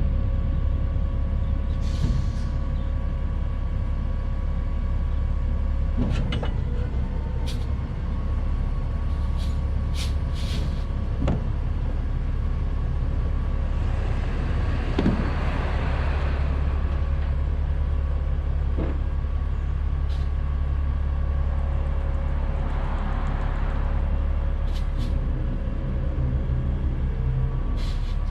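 Trash truck's diesel engine running steadily, building air. Air hisses twice, about halfway through and again a few seconds before the end, with a few sharp clicks in between.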